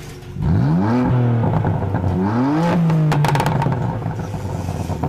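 Intro sound effect of a car engine revved twice, its pitch rising each time and then settling into a steady run, with a quick burst of rattling clicks about three seconds in.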